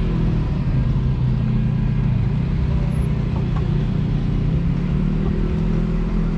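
Jeep Wrangler Rubicon's engine running with a steady low hum while the truck drives the off-road trail.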